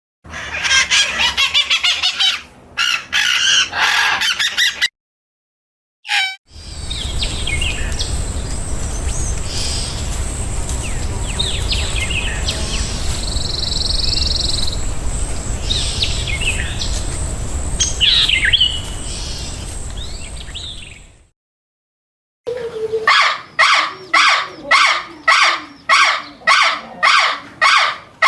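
Wild birds calling in three cut-together stretches: bright chirping, then a steady outdoor rumble with scattered bird calls, then a fast series of loud repeated squawking calls, about three a second, near the end.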